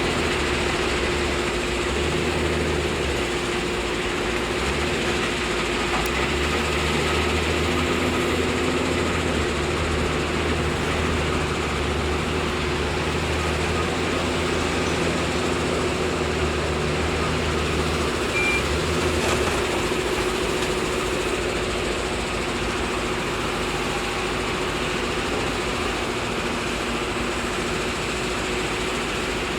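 Heavy diesel excavator engine running steadily under load, with a constant hum and a low engine note that drops away about twenty seconds in.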